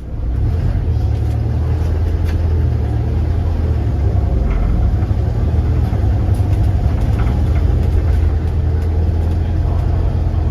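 Volvo B7RLE single-deck bus's diesel engine running, a steady deep rumble heard inside the bus, with light rattles from the body.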